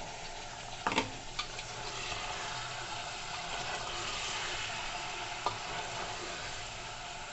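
Mutton, cauliflower and green beans sizzling in an open aluminium pressure cooker as they are stirred with a spatula; the sizzle builds over the first few seconds. A sharp click sounds about a second in.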